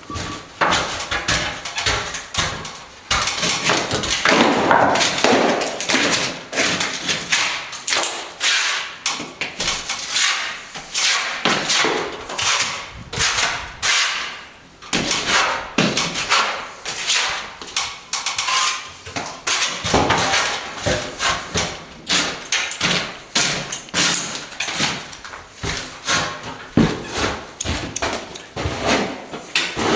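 Plastering tools knocking and scraping again and again: a trowel working render and plaster.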